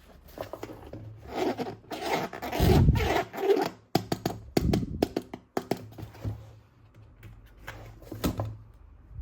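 Plastic toy weapon parts and packaging being handled: rustling and scraping, a heavier thump about three seconds in, then a series of sharp plastic clicks.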